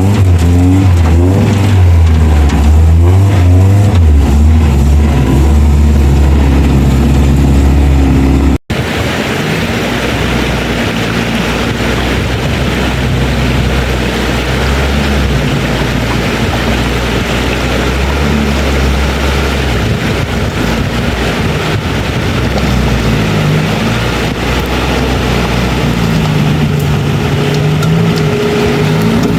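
Suzuki 4x4 engine running under load off-road, its pitch rising and falling with the throttle. After a sudden break about nine seconds in, the engine continues under a loud, steady hiss.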